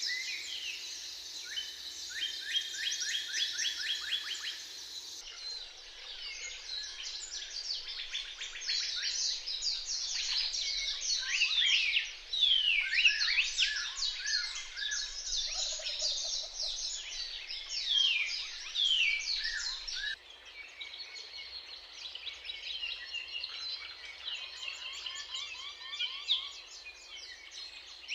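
Several songbirds singing and calling at once, with fast trills and short falling whistled notes. The chorus changes abruptly about five seconds in and again about twenty seconds in.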